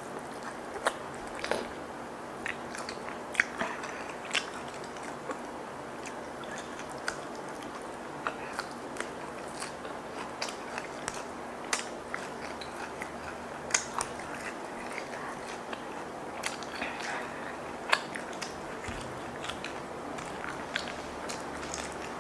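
Close-miked eating: chewing fried chicken in chili sambal and fresh leafy greens, with many sharp wet mouth clicks at irregular intervals.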